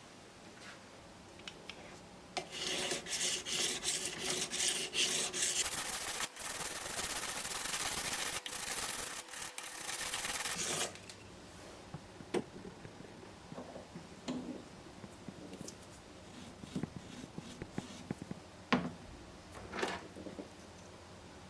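Sterling silver bracelet being rubbed with an abrasive tool in quick, repeated scratchy strokes to texture its surface, starting about two seconds in and lasting around eight seconds. After that come a few light taps and clicks as the piece is handled.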